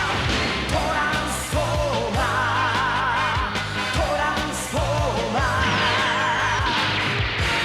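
Opening theme song: upbeat rock music with a singer holding long, wavering notes over a steady drum beat.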